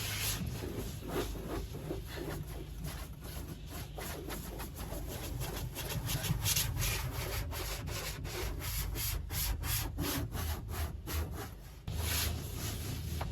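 A car being scrubbed by hand: a long, fast series of rubbing strokes that speed up toward the end and stop abruptly just before the end.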